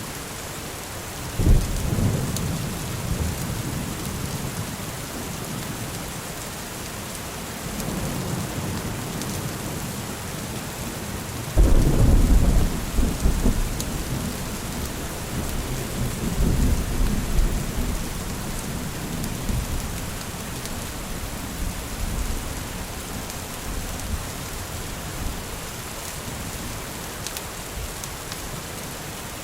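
Steady rain with thunder: a sudden clap rolling into a deep rumble about a second and a half in, a louder one a little before the middle, and more rolling rumbles after it.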